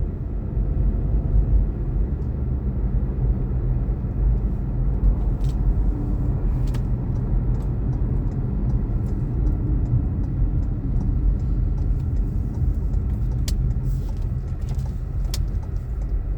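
Steady road and engine rumble heard inside a moving car, with a few faint light ticks.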